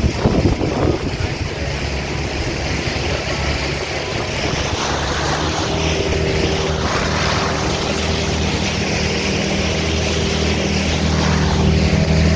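Motorboat engine running steadily underway, with wind and water rushing past. A steady higher whine joins the engine hum about halfway through.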